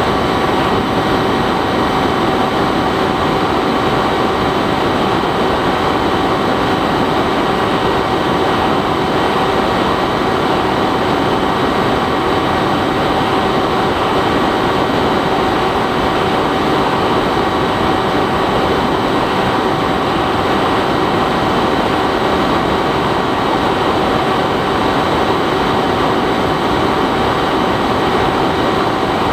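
Bixler 3 model plane's electric motor and pusher propeller running at a steady throttle in flight: an even whine of several fixed tones over loud rushing wind, picked up by the camera on board the plane.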